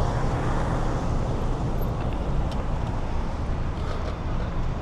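Steady rush of riding noise on a bicycle: wind across the action-camera microphone mixed with nearby car traffic.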